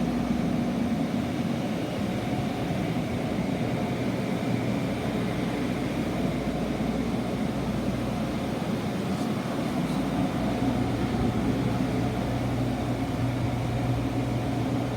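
Water-damage drying equipment, air movers and blowers, running together in a steady drone with a constant low hum, drying out water-soaked drywall.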